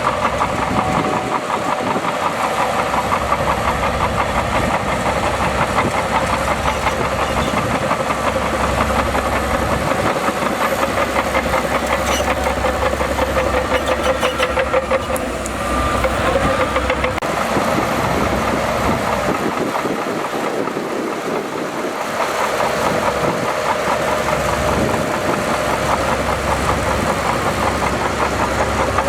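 Bulldozer's heavy diesel engine running steadily, with a brief dip in level about halfway through and a longer one about two-thirds of the way in.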